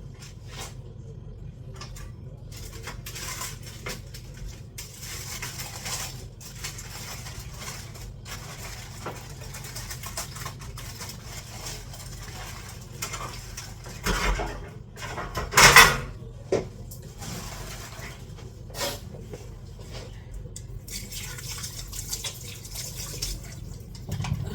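Pots, pans and utensils being handled on a stovetop, with scattered small clinks and two loud clanks about two thirds of the way through, over a steady low hum.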